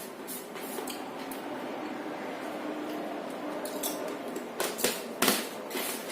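Cutlery clinking and scraping on a plate of fried rice while eating, with a quick run of sharp clinks near the end.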